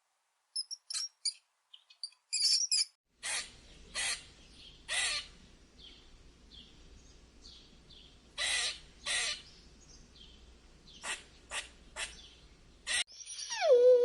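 Bird calls: a few high, thin chirps, then a series of short, harsh calls, about nine of them, spaced a half-second to a few seconds apart.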